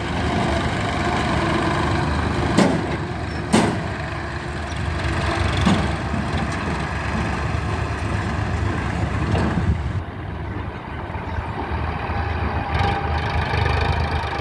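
Tractor engine running steadily, with several sharp knocks, the first two about a second apart near the start.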